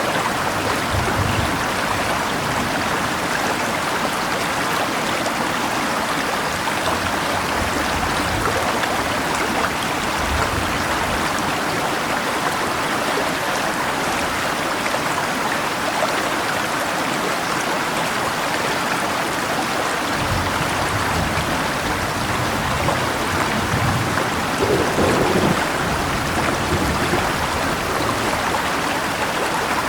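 Steady rushing of a river with rain falling, an even, unbroken wash of water noise. A few low rumbles come and go beneath it, most around the last third.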